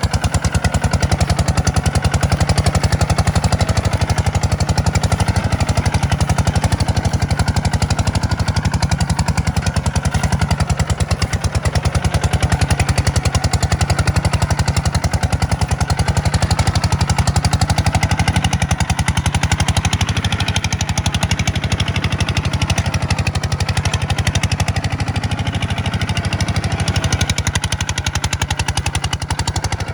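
Tractor diesel engine running steadily under the load of plowing, with a rapid, even, hard-edged firing beat.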